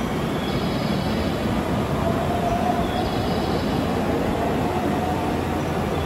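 Steady train noise on a railway station platform, with a faint whine held from about two seconds in to about five seconds in.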